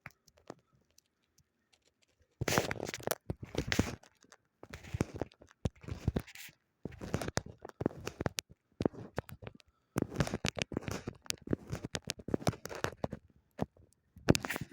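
Irregular crunching and scraping noises close to the microphone, in short uneven bursts that begin about two seconds in.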